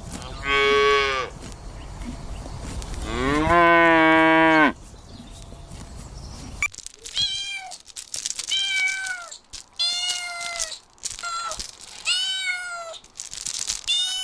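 Cat meowing repeatedly in the second half: about eight short meows, each falling in pitch, roughly one a second. Before that come two longer, lower drawn-out animal calls.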